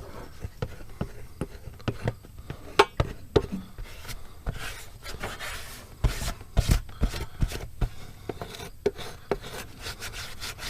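Irregular hand scraping and rubbing strokes with scattered sharp clicks as rust and grit are cleaned off the rubber inner tube before patching. The strokes turn quicker and more regular near the end.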